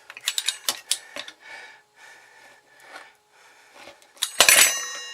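Light clicks and scraping from a steel ruler and pizza cutter being handled on cardboard. Near the end comes a loud metallic clank that rings on for about a second, typical of a steel ruler being set down.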